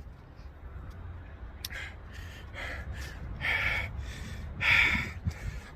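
A man breathing hard in a series of short gasping exhales, about one every half second to second, the last one loudest, over a low steady rumble.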